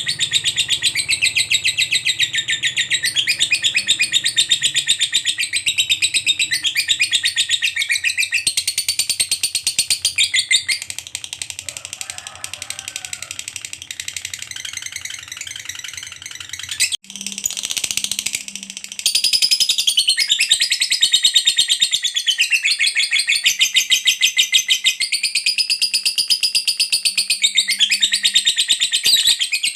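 Lovebird 'ngekek': a long, rapid, high-pitched chattering trill that runs on without pause. It gets quieter partway through, breaks off briefly about 17 seconds in, then picks up loud again.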